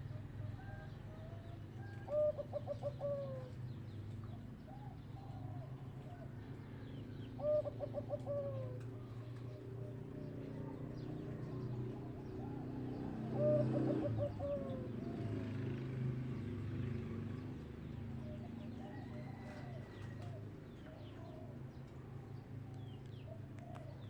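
Zebra doves cooing: a near bird gives three loud, rapid staccato cooing phrases about five seconds apart, over fainter cooing from other doves, light chirps and a steady low hum.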